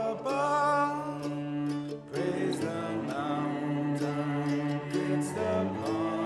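Hymn singing with instrumental accompaniment, held notes moving from one pitch to the next, with a short break about two seconds in.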